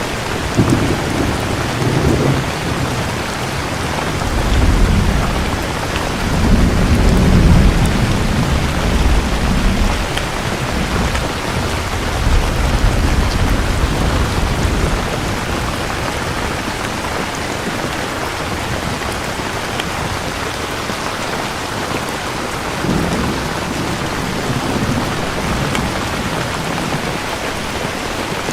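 Steady heavy rain with rolls of thunder: low rumbles swell in the first few seconds, build to the loudest roll between about four and ten seconds in, and a weaker rumble comes back later.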